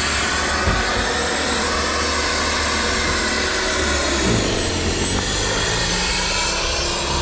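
A motor running steadily under a loud, even rushing noise, with its pitch shifting a little about two-thirds of the way through.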